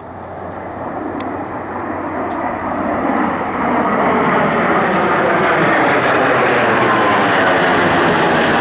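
F-16 fighter jet's engine rushing as the aircraft comes in on approach, growing louder and brighter over the first few seconds, then holding steady and loud.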